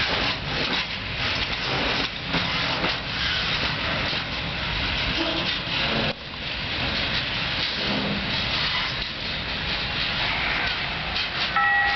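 Empty freight wagons of a diesel-hauled train rolling past on the track, with steady wheel rumble and rapid clattering. Near the end a few steady ringing tones begin.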